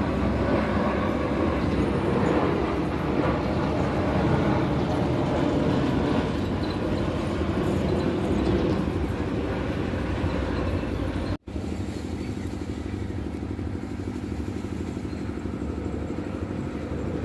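Loud, steady engine noise from vehicles, a broad rushing sound. It changes abruptly at a cut about 11 seconds in to a steadier hum with a low held tone.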